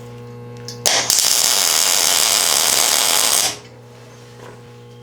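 Electric arc welder laying a tack weld on steel: the arc crackles and buzzes for about two and a half seconds, starting about a second in and stopping abruptly, over a steady low hum.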